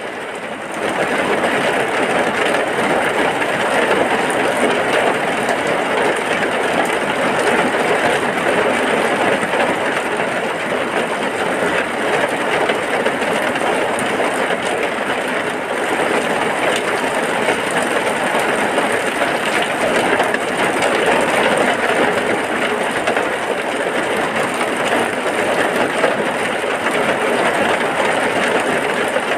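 Heavy rain falling in a steady downpour, a dense even hiss that grows a little louder about a second in and then holds.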